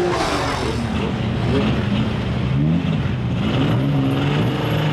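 Banger-racing car engines running and revving unevenly, their pitch rising and falling, with several cars overlapping.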